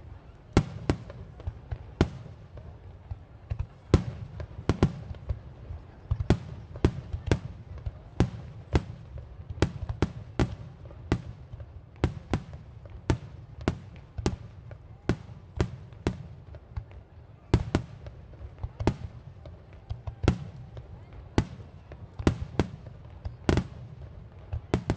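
Aerial fireworks shells bursting in a rapid series of sharp bangs, one or two a second, over a continuous low rumble.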